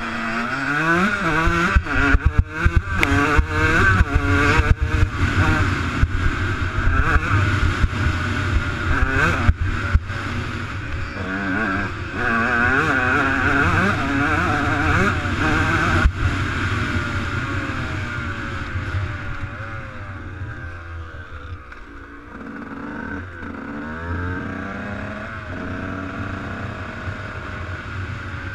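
Motocross bike engine revving up and down again and again as it rides, its pitch rising and falling, with sharp knocks in the first half. It gets quieter over the second half.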